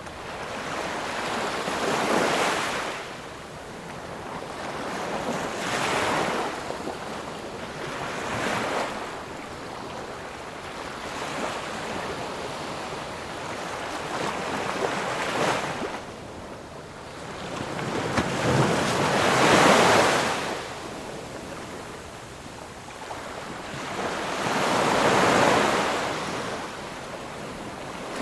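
Ocean surf: waves breaking one after another, each a rush of noise that swells and fades every few seconds. The loudest breaker comes about two-thirds of the way through.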